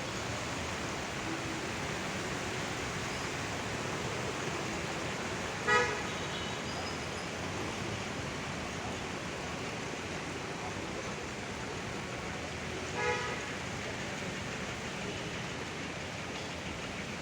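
Two short vehicle horn toots about seven seconds apart, the first louder, over a steady background hiss of street and rain noise.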